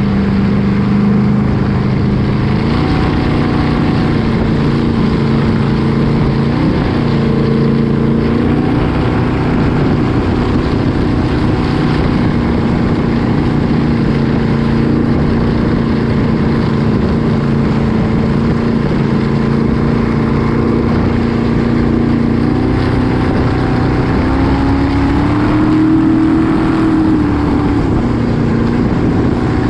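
Loud engines running steadily, several engine tones at once, their pitch shifting a few times, with one rising and falling about 25 seconds in.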